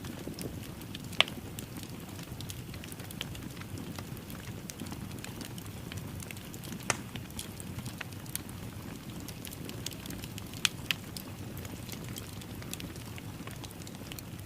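Wood fire crackling in a fireplace: a steady low rush with scattered sharp pops, the loudest about a second in, around seven seconds and twice near eleven seconds.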